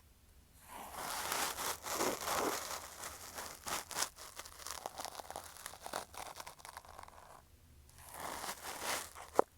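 A cotton swab rubbed and scraped against an earphone microphone, giving close, scratchy rustling strokes with small clicks. It starts about half a second in, pauses briefly near the end, then resumes with a sharp click.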